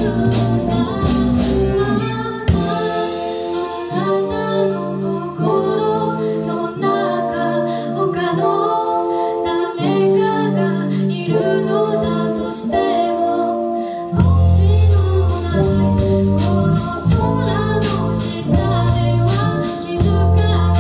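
A live rock band playing a song, with a sung lead vocal over guitar, bass and drums. The bass and drums drop away about two seconds in and come back in with the full band about two-thirds of the way through.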